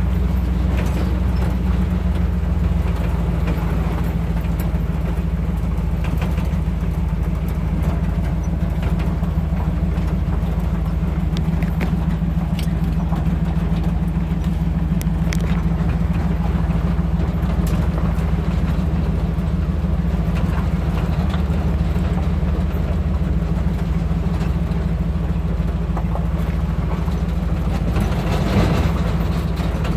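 A pickup truck driving, with a steady engine and road rumble heard from inside the cab and faint clicks now and then.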